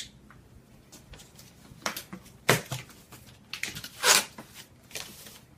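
Packaging being handled while accessories are pulled from a saw's shipping box: irregular crinkling and rustling with a few sharp rattles, loudest about two and a half and four seconds in.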